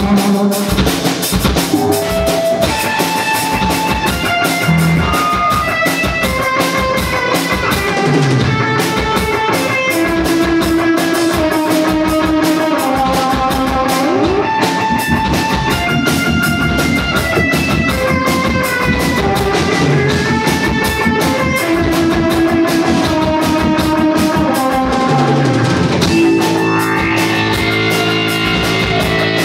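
Rock music: a guitar plays a melody of held notes, some bent in pitch, over a steady drum kit beat, and the band grows fuller near the end.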